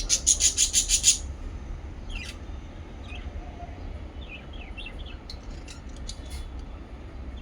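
Small pet parrots chirping: a fast run of about eight sharp chirps in the first second, then scattered short chirps, over a low steady hum.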